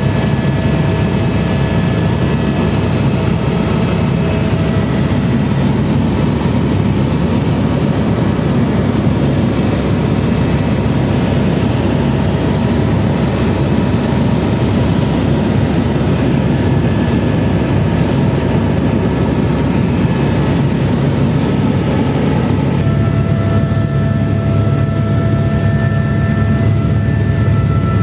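Eurocopter AS350 (Airbus H125) helicopter running steadily: loud engine and rotor noise with a whining turbine tone on top, whose pitch shifts about 23 seconds in.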